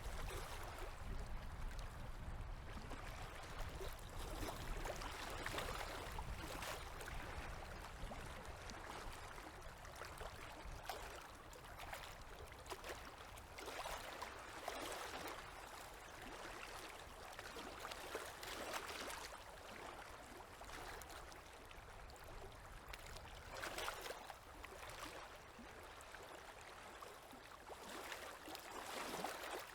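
Small river waves lapping at the shore, coming in soft irregular swells every couple of seconds over a low rumble.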